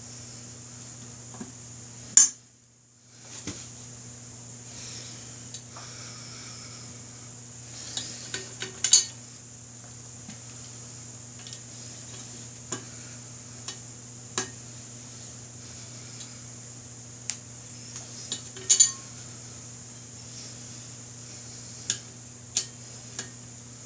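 Torque wrench and socket clinking on steel rotor bolts while they are snugged down: a dozen or so sharp metallic clicks and clinks spaced irregularly, the loudest about two seconds in, about nine seconds in, and near nineteen seconds. A low steady hum runs underneath.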